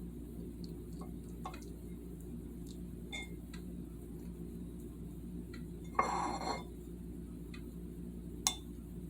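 Kitchenware being handled: scattered faint clicks and light clinks, a brief clatter about six seconds in and a sharp click near the end, over a steady low hum.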